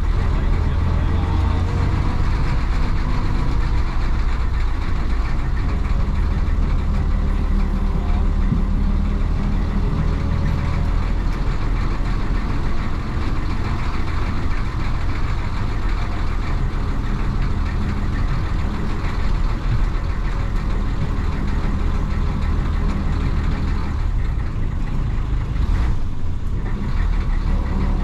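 1966 Isuzu BXD30 bonnet bus's DA640 inline-six diesel engine running under way, a steady deep engine note. Near the end the engine note drops away for a moment and then comes back.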